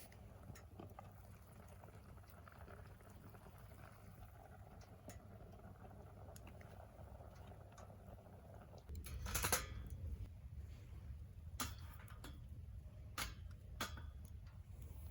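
Wood fire burning in a secondary-combustion wood stove, a faint steady crackle with a few sharp pops in the second half. A low rumble comes up about nine seconds in.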